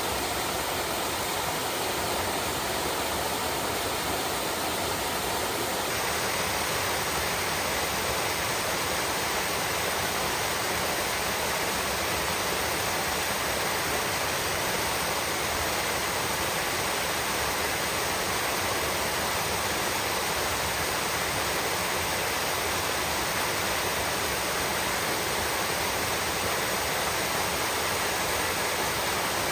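Stream water flowing in a steady, continuous rush, with a slight change in tone about six seconds in.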